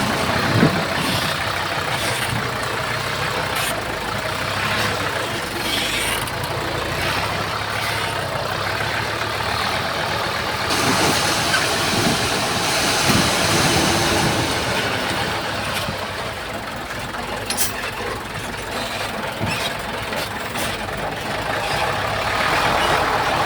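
Komatsu bulldozer's diesel engine running steadily as it works, with scattered sharp clanks and knocks from rock and metal, the loudest about half a second in.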